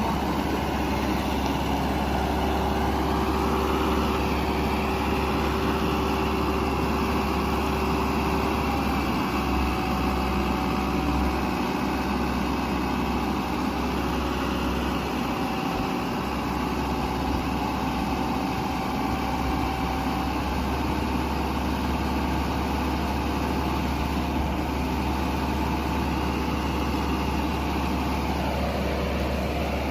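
Dump truck's diesel engine running steadily, with faint whining tones that come and go above it.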